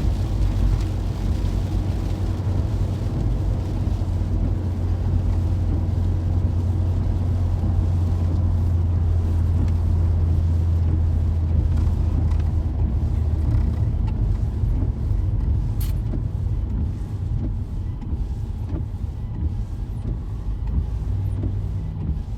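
Car cabin noise while driving on wet roads: a steady low drone of engine and tyres with a hiss of road noise. After about 14 seconds the drone eases off as the car slows, and a run of light, regular ticks follows.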